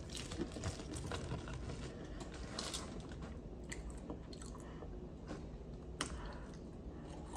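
A person chewing fried okra close to the microphone, faint, with a few soft crunches scattered through.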